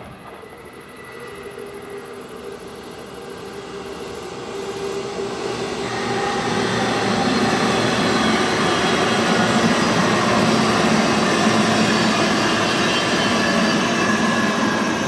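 A train approaching along the track, growing steadily louder over the first seven seconds or so and then passing close by, loud and steady, with a hum of steady tones over the rolling noise.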